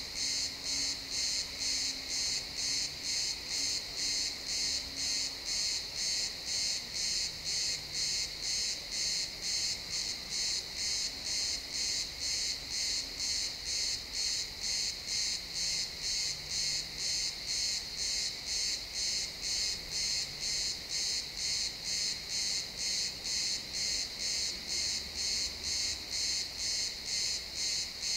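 Crickets chirping in a steady, even rhythm of about two high-pitched pulses a second.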